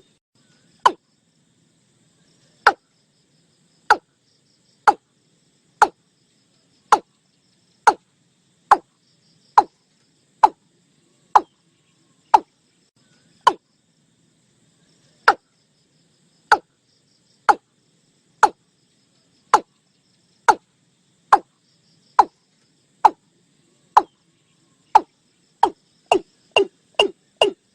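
Male watercock calling: a series of short, hollow falling notes, about one a second, that speed up into a quick run near the end.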